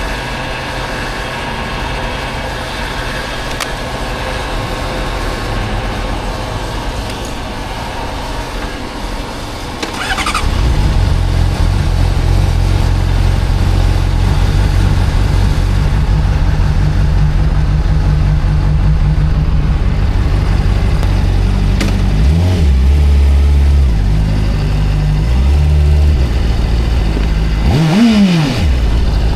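Motorcycle engine: about ten seconds in a brief rising whine and the engine note jumps much louder, then runs steadily with revs rising and falling twice, the last near the end.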